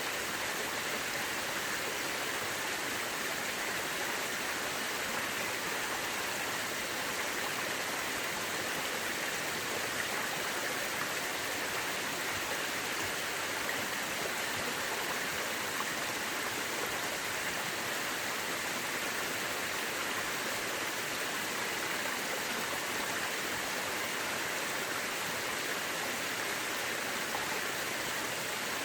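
Mountain river rushing over rocks in a steady, even hiss of flowing water.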